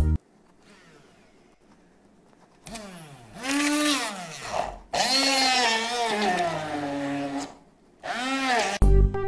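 Blender running in three pulses after a short quiet spell, its motor whine rising and falling in pitch as it speeds up and slows down.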